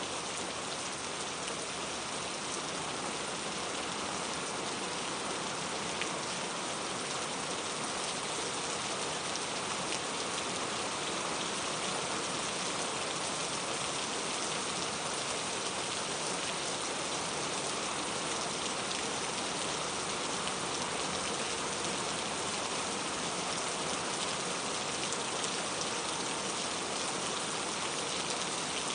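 Steady rain falling, an even hiss of drops with a faint patter of individual drops.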